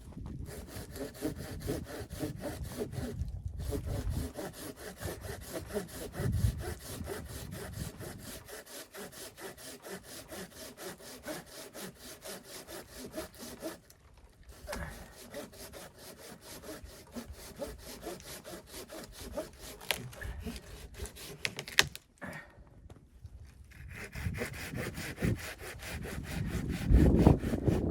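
Hand saw cutting through wood in steady back-and-forth strokes, with a few short pauses.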